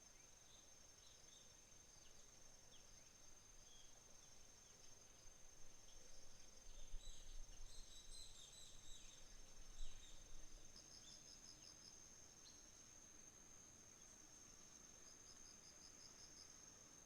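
Autumn insects trilling in one steady high-pitched note, with another insect's short pulsed chirps coming in twice later on. Between about five and ten seconds, small birds give quick chirping calls, along with a few low thumps.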